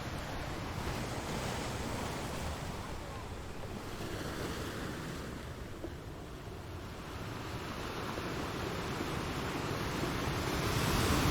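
Ocean surf: a steady wash of waves that swells and eases, then builds louder toward the end.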